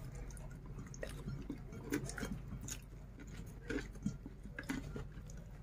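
A person chewing a mouthful of rice and fried chicken, eaten by hand, with soft wet smacks and clicks scattered irregularly, over a low steady hum.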